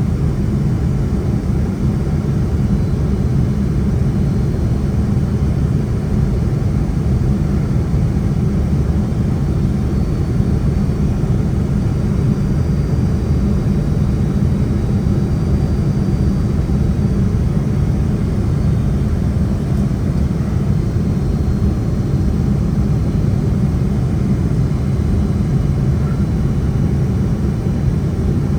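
Steady low cabin roar of a Boeing 767-300 airliner in flight, its engines and rushing air heard from inside the cabin at a window seat. The noise stays even throughout, with no sudden changes.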